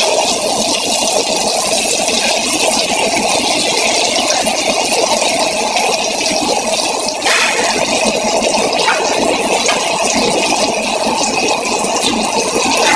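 Battered eggplant sizzling and crackling as it shallow-fries in hot oil: a steady, dense sizzle, with a sharper pop about seven seconds in.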